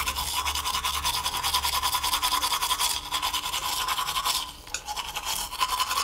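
Toothbrush scrubbing sound effect: fast, even back-and-forth brushing strokes on teeth, easing off briefly about two-thirds of the way through.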